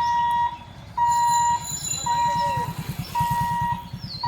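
Railway level crossing warning alarm beeping steadily, about one beep a second, while the gate is closed for a train. Under it runs a low rhythmic rumble that grows louder in the second half, from a train on the track.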